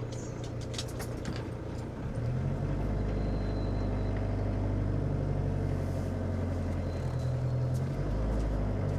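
Motorhome engine running at idle, then picking up and running louder from about two seconds in as the vehicle moves off. A few sharp clicks come in the first second or so.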